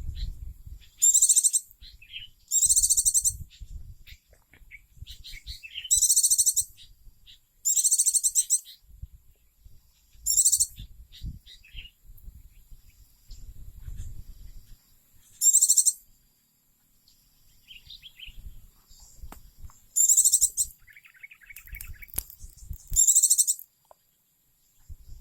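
White-eye (pleci) singing in loud, high-pitched bursts of rapid twittering, each lasting half a second to a second, about nine times with short pauses between. Faint low rumbling noise fills the gaps.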